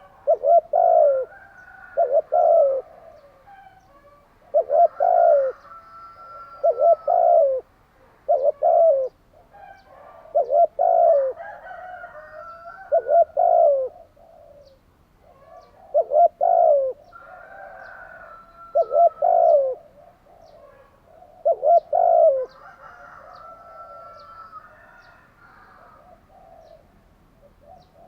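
Spotted dove cooing: a series of low coo phrases repeated every two to three seconds, each made of a few short notes. Faint high chirps of small birds sound in between.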